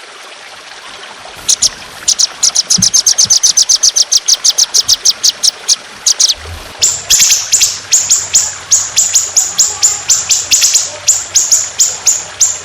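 A trotolan songbird singing long, rapid runs of sharp, high, downward-sweeping notes: about six or seven a second from a second and a half in, then after a short break a slower run of louder sweeping notes. Water trickles faintly underneath.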